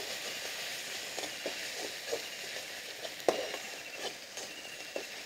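Mustard paste and onions frying in oil in a steel kadai, sizzling steadily, with a scatter of sharp utensil clicks against the pan and bowl. The loudest click comes about three seconds in.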